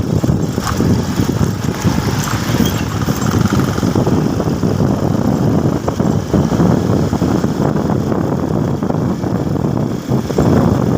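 Motorcycle on the move: steady engine and road noise, dense and low.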